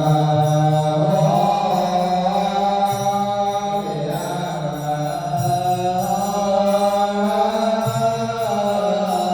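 Buddhist chant music: a slow, melodic voice held on long notes over a low bass accompaniment that changes note every two or three seconds.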